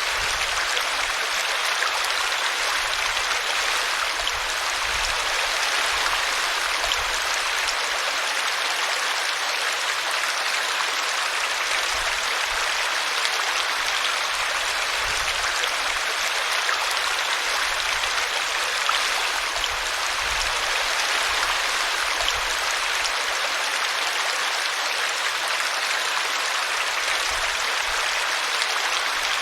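Small brook babbling steadily as it spills over a tree root, an even, unbroken rush of water.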